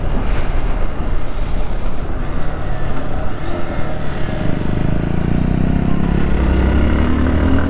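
Hero Xpulse 200 single-cylinder motorcycle engine running while riding, with wind rumble over the microphone; the engine note climbs steadily in the second half as the bike accelerates.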